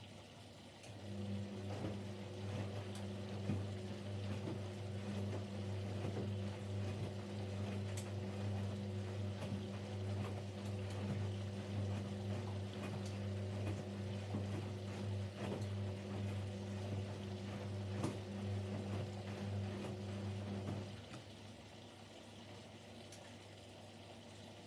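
Siemens Siwamat Plus 574 washing machine running during its third rinse: a steady hum with water sounds and occasional clicks starts about a second in and stops about twenty seconds later.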